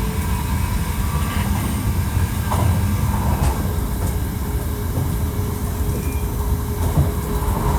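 Hankyu 1300 series electric train running along the line: a steady low rumble of wheels on rail, with faint steady tones above it.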